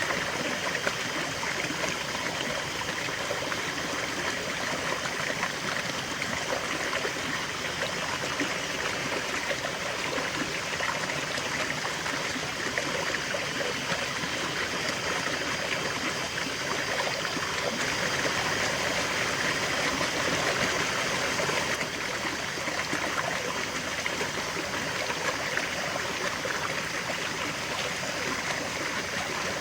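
River water flowing over rocks, a steady rushing and babbling that swells slightly about two-thirds of the way through.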